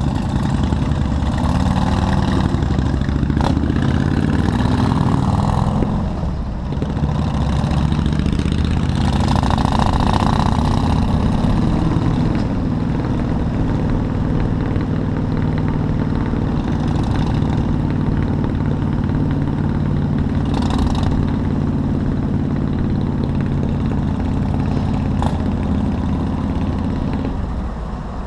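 Motorcycle engine running while riding. Its pitch rises and falls as it speeds up and slows, with a brief dip about six seconds in.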